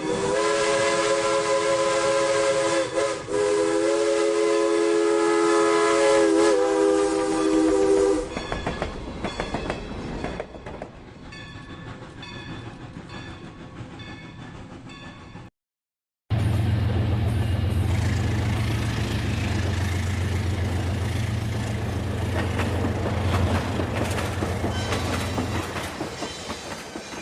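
A Rail King toy train's horn sound, a steady chord of several tones held for about eight seconds. It gives way to quieter, evenly spaced clicking. After a short break, a low steady hum with a noise haze runs for about ten seconds and then fades.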